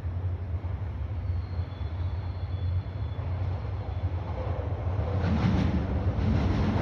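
E5 series Shinkansen train running along the platform, a steady low rumble that swells louder about five seconds in.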